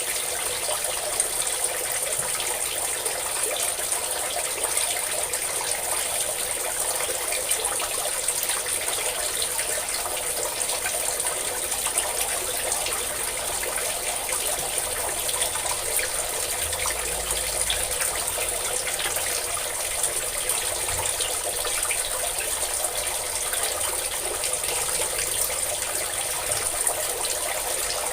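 Water pouring in a steady stream, splashing without pause at an even level, with a hiss high in the sound.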